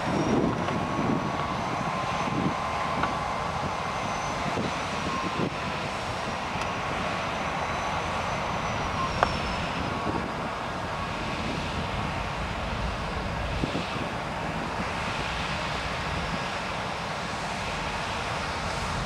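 Freight train rolling past with a steady rumble and rail noise, with a faint thin high-pitched whine over it for about the first half.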